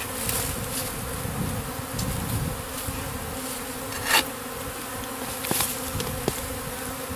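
Honeybee swarm buzzing as a steady, dense hum of many bees, stirred up by the bush they cluster on being dug around. A few sharp clicks cut through, the loudest a knock about four seconds in.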